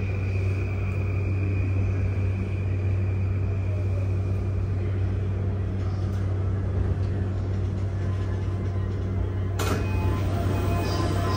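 Inside the car of a JR East E235 series electric train: a steady low hum and rumble, with a faint high whine in the first few seconds. A sudden burst of noise comes about ten seconds in.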